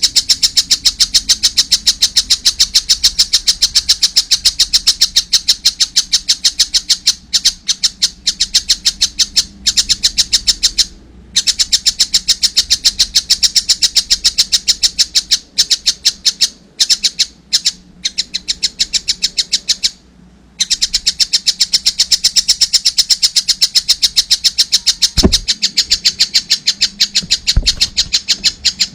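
A young tengkek buto kingfisher chick calling non-stop: a rapid, even train of high-pitched chirps, several a second, broken only by a couple of short pauses.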